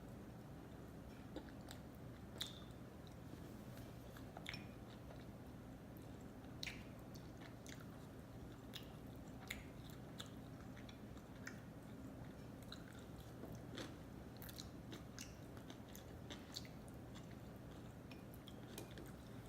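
Close-miked chewing of sushi: soft, faint mouth sounds with scattered small wet clicks and smacks, over a steady low hum.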